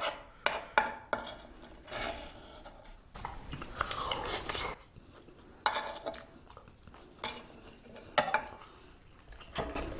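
Cutlery clinking and scraping against an iron serving plate of octopus fried rice: a handful of sharp clicks, with a longer scrape about four seconds in.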